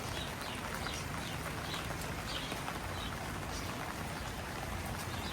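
Steady rain falling on a garden, with a bird chirping repeatedly over it, short high notes about two a second that fade out near the end.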